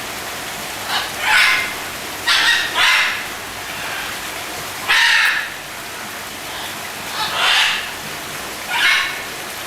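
A bird giving short, harsh squawks, about eight of them at irregular intervals, over a steady background hiss.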